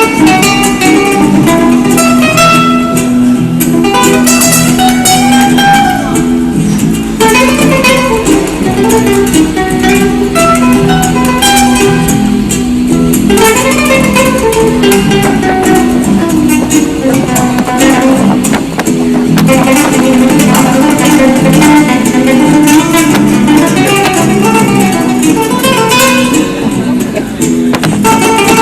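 Guitar music in a flamenco-like Latin style, plucked and strummed, playing without a break.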